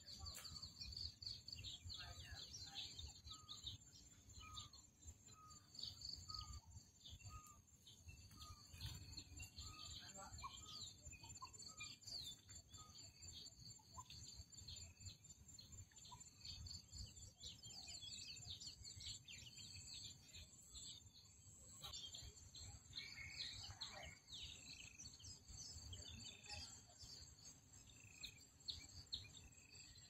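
Faint outdoor ambience of small birds chirping and calling, including a series of short repeated notes over the first ten seconds, over a steady high insect drone and a low rumble.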